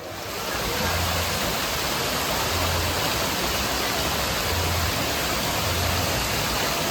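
Water rushing steadily, cutting in abruptly, with a few low rumbles underneath.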